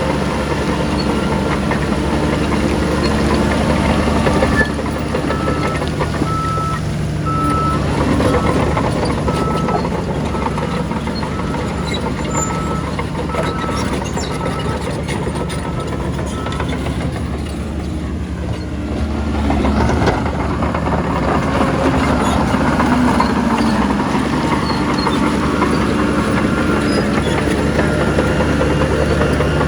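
Heavy diesel earthmoving machinery running steadily, with a reversing alarm beeping at about one beep a second for a stretch early on and again near the end.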